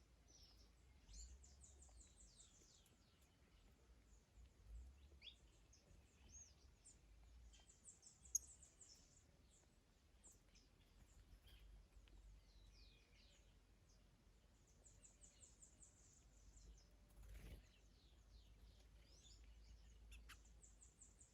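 Faint garden birdsong: several small birds chirping, with a few rapid high trills, over a low wind rumble. One sharp click a little past a third of the way in.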